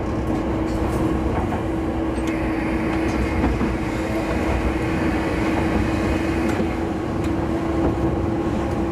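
Diesel railcar running along the line, heard from on board: a steady running drone with a held low tone, a thin high whine from about two seconds in until about six and a half, and a few light clicks of the wheels over the rails.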